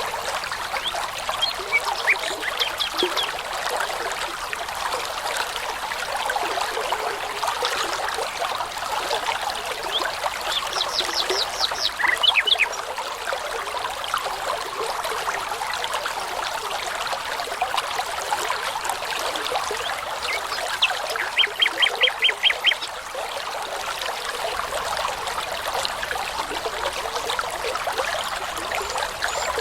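Babbling brook running steadily, with songbirds singing short phrases over it. There are two rapid runs of repeated high notes, one about a third of the way in and a louder one about two-thirds of the way through.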